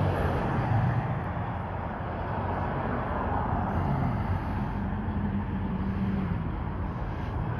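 Motor vehicle running nearby: a steady rumble with road noise, and a faint falling tone around the middle as it goes by.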